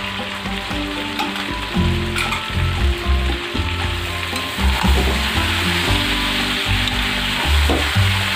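Chicken pieces and ginger-garlic-chili paste sizzling steadily in a hot kadai, stirred and turned with a metal spatula that scrapes against the pan.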